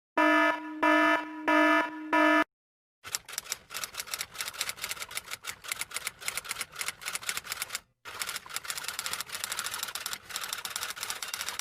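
Four short electronic beeps in quick succession, then, after a brief gap, about eight seconds of rapid, typewriter-like clicking of keys with one short pause partway through.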